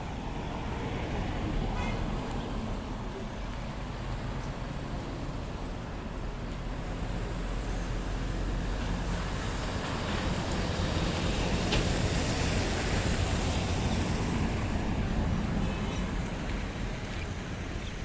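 Street traffic noise: a steady rumble of passing vehicles that grows louder about ten seconds in and eases off near the end.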